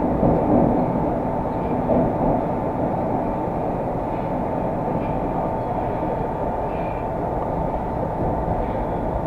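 Moscow metro train running at speed between stations, heard from inside the carriage: a dense, steady rumble with a constant hum just under 1 kHz.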